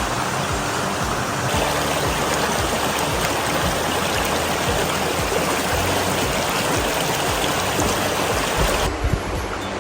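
Stream rushing steadily, a dense even sound of flowing water. A few low thumps come near the end, and the hiss thins out just after.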